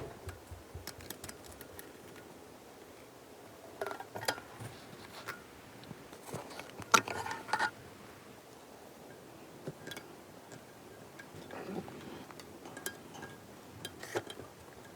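Small metal parts and tools clinking and knocking as they are handled, in scattered irregular clatters, the loudest about seven seconds in.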